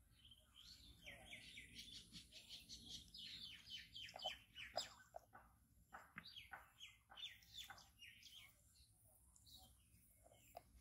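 Small birds chirping faintly: quick runs of short, high, falling chirps, busiest in two bouts with a quieter gap between.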